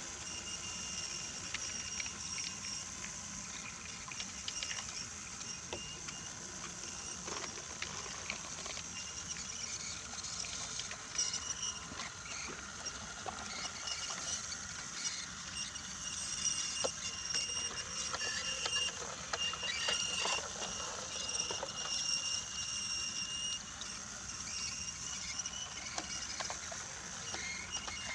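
Brio toy train running on wooden track: a steady high whine from its small motor, with scattered light clicks and rattles from the wheels and wagons on the wooden rails.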